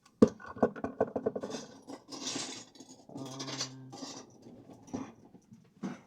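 Lego bricks clattering as they are picked up and rummaged through, a quick run of small plastic clicks after one sharp knock at the start. Then rustling and a short scraping slide of plastic about three seconds in, with a few more clicks near the end.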